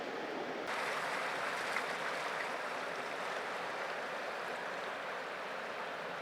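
Ocean waves washing against rocks: a steady rush of surf that swells sharply less than a second in, then slowly eases.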